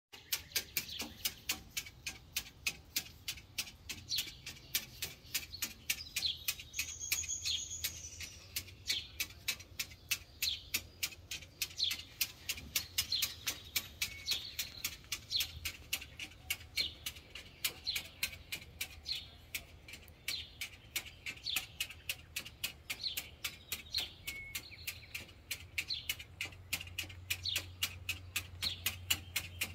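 A bird chirping over and over, short high chirps roughly one or two a second, with a brief higher whistle about seven seconds in. Under it runs a faint, fast, steady ticking.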